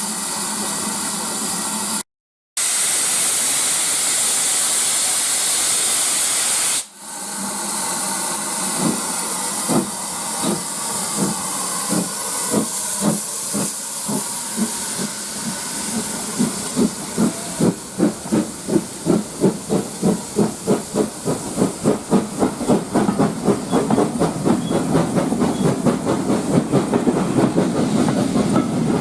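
Steam locomotive: a loud steady hiss of escaping steam, then the locomotive pulls away. Its exhaust chuffs begin slowly about eight seconds in and quicken steadily as it gathers speed.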